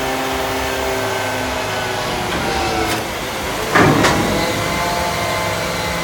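Hook-lift truck's engine running steadily, with a short, loud burst of noise a little under four seconds in.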